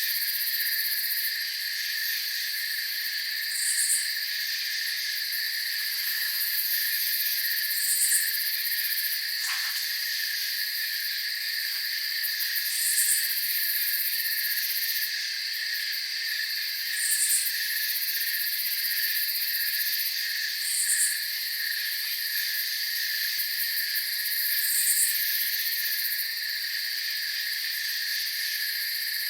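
Night chorus of crickets: a steady pulsing trill with a higher continuous ring above it. A short, higher chirp recurs about every four seconds.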